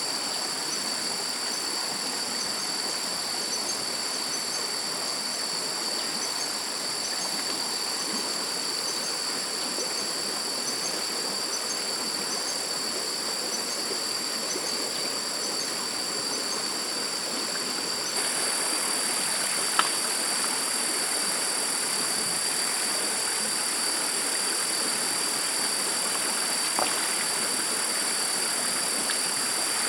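Stream water running steadily, with insects calling in several steady high tones and a faint chirp repeating about once a second. The whole sound gets a little louder about two-thirds of the way in, and two sharp clicks come soon after.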